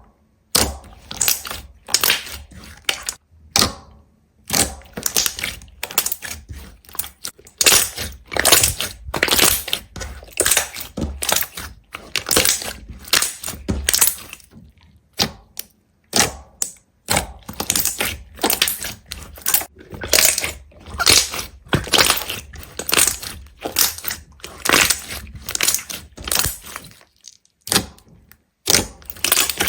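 Rapid, irregular crunching and crackling: many sharp snaps a second, as of something brittle being crushed or broken, with brief pauses about halfway through and near the end.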